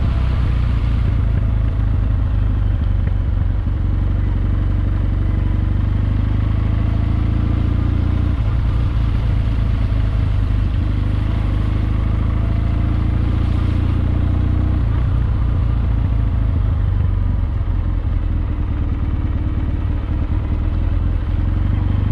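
Kawasaki W650's air-cooled parallel-twin engine running steadily through its exhaust as the motorcycle is ridden along, with a deep, even note and small changes in throttle.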